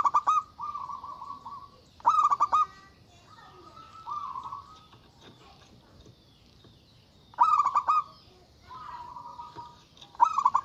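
Zebra dove (perkutut) cooing: three phrases, each a quick stuttering cluster of notes followed by a longer rolling coo. A fourth phrase begins near the end.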